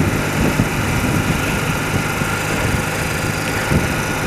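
Engine of a 30-year-old BMW motorcycle running steadily, under an even rushing noise.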